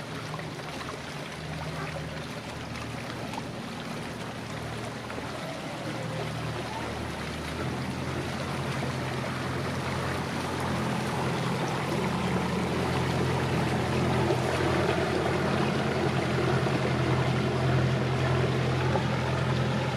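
A motor boat's engine running at a steady pace, growing steadily louder as the boat approaches, over the wash of water.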